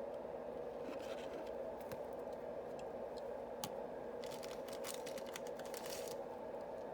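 Yu-Gi-Oh booster pack and cards being handled by hand: a run of small crackles and clicks, densest near the end, over a steady low hum.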